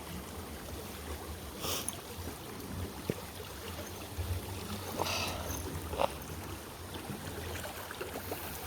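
Someone wading in flowing floodwater: water splashes a few times, about two seconds in and twice more around five to six seconds, over a steady low rumble of moving water and wind.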